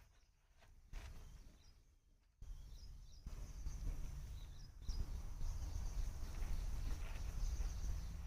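Outdoor background noise: a low rumble, louder from about two and a half seconds in and again near five seconds, with faint high chirping over it.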